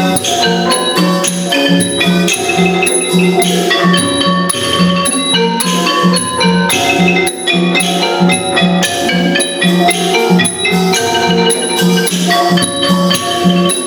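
Thai traditional ensemble music led by mallet percussion, xylophone-like runs of quick pitched notes over a steady low pulse about twice a second.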